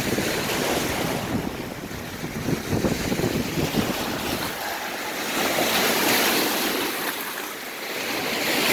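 Lake Superior waves washing in at the shore, surging and easing in swells. Wind buffets the microphone in the first half.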